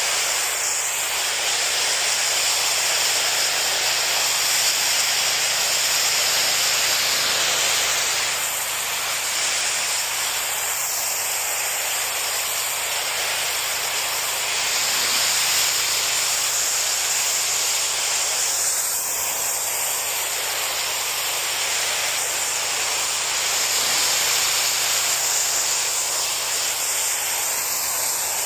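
Pressure washer spraying with a steady, loud hiss that swells and fades every several seconds.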